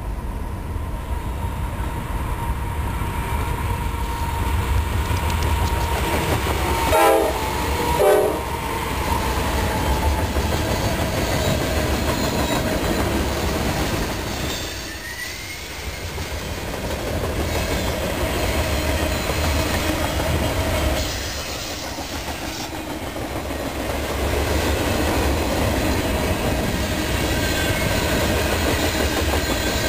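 Freight train: the locomotive horn sounds two short blasts about seven and eight seconds in. After that comes the steady rumble and clatter of freight cars rolling past on the rails.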